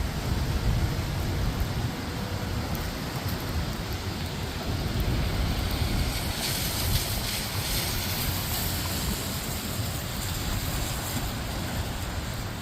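Steady rain with wind rumbling on the microphone. A louder hiss swells for several seconds in the middle, then falls back.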